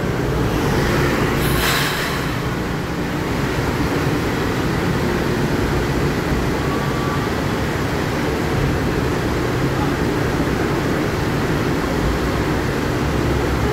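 Long Island Rail Road M3 electric train coming to a stop at the platform, with a short hiss of air about two seconds in, then the steady low hum of its equipment as it stands.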